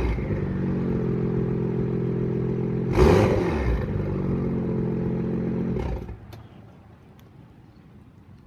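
BMW M2's turbocharged straight-six, through an M Performance exhaust, idling steadily with one quick throttle blip about three seconds in, then switched off about six seconds in.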